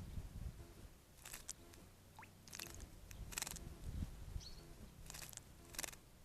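A small bird bathing in a garden bird bath: short, irregular splashes of water, about six in all, over a faint low rumble.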